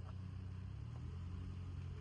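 Toyota ToyoAce camper truck's engine running, a steady low rumble.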